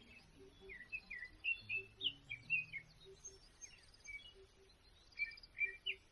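Wild birds calling: a run of short whistled chirps and slurred notes, busiest from about a second in to three seconds and again near the end, over faint low background notes.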